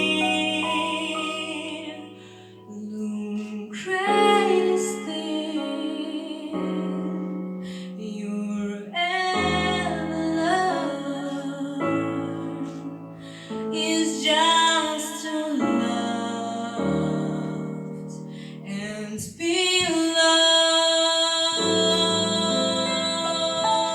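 A teenage girl singing a slow jazz ballad over a piano accompaniment, in long held phrases with vibrato and short breaths between them.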